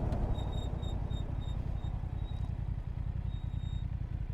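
Motorcycle engine running low and steady on the move. A run of short, high-pitched beeps comes at about three a second over the first two seconds, then one longer beep near the end.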